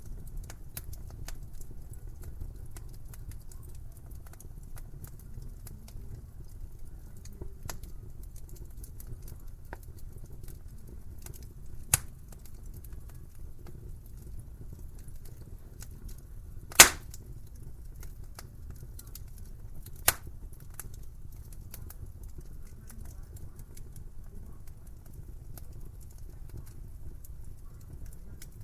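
Wood fire crackling in a fireplace over a steady low rumble of flame, with many small ticks and three louder pops, the loudest a little past halfway.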